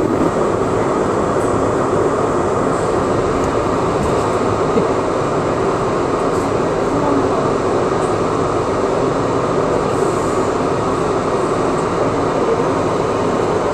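Steady, even din inside an R62A New York City subway car in the tunnel, with no clear wheel beat or squeal.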